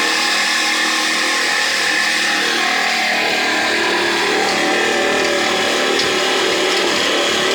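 Old single-cylinder desi diesel oil engine running steadily while driving an atta chakki flour mill: a continuous loud mechanical din of engine and grinding mill together.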